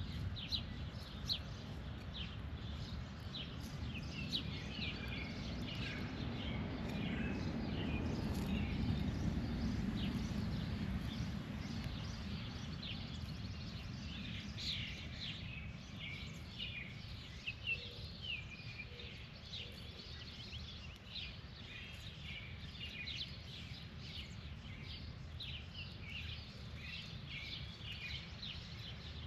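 Birds chirping outdoors, many short calls in quick succession over a steady low rumble of background noise that swells for a few seconds about a third of the way in.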